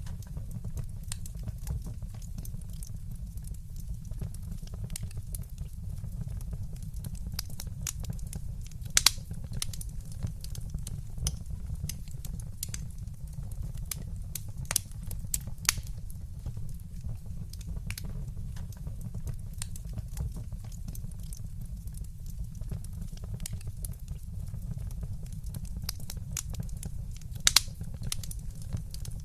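Wood fire in a fireplace crackling, with scattered small pops and a steady low rumble underneath; two louder snaps come about nine seconds in and near the end.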